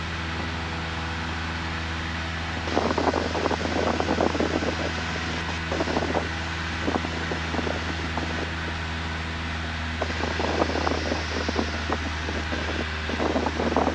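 Cessna 172N's four-cylinder Lycoming engine and propeller running steadily at pattern power, heard inside the cabin. Irregular crackling noise comes and goes over it, starting about three seconds in and again from about ten seconds in.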